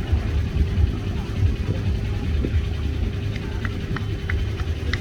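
Low, steady rumble of a fast passenger ferry's engines running, with a few faint short ticks near the end.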